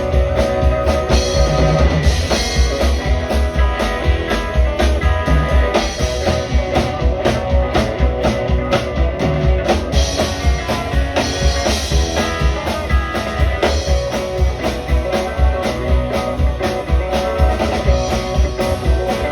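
Live rock band playing an instrumental passage: electric guitar over a drum kit keeping a steady driving beat.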